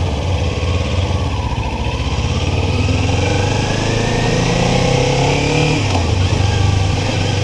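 Kawasaki Ninja 400 parallel-twin sport bike engine under way, revs climbing for a few seconds, then dropping about six seconds in as the throttle eases or a gear changes. Steady wind rush over the microphone underneath.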